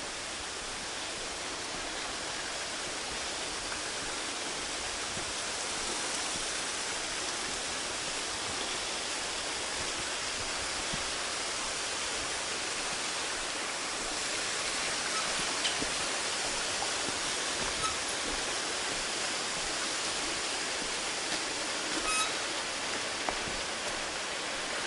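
Steady rush of falling water from a waterfall, an even hiss with no tones that grows slightly louder partway through. A few faint ticks sound in the second half.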